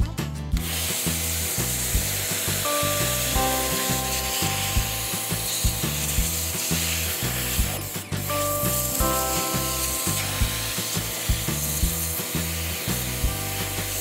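Sun Joe SPX3000 electric pressure washer spraying water onto a wicker chair, a steady hiss that starts about half a second in. Background music with a moving bass line runs under it.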